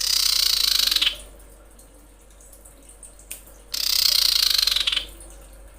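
Female common iora (cipoh) calling to a male: two dry, rapid rattling calls, each about a second long, the second starting about three and a half seconds after the first.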